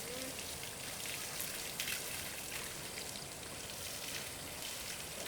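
Water pattering steadily, with scattered sharper drips and splashes.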